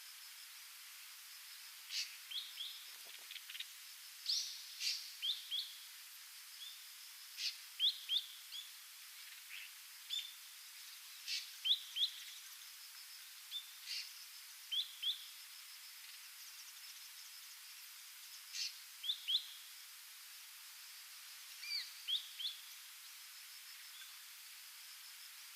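Ashy drongo calling: short, sharp, high notes in quick groups of two to four, repeated every few seconds over a steady background hiss.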